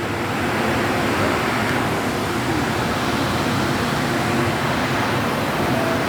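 MTR train running through the station platform without stopping, a steady loud noise of wheels on rails and train running gear.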